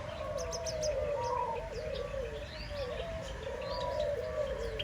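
Mixed aviary birds calling together: a continuous low, wavering warble with many short, high chirps over it.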